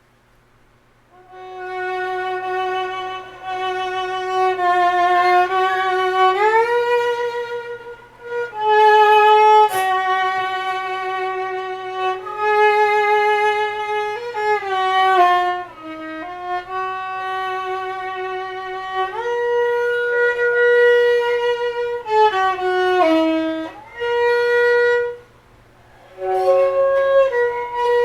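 Solo violin playing slow, sustained notes with a wide, even vibrato, starting about a second in, with short pauses between phrases. A faint steady hum sits underneath.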